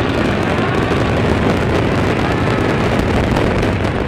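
Continuous dense rumble of a fireworks barrage, many bursts running together into one steady roar, with a few faint whistling glides, over wind buffeting the microphone.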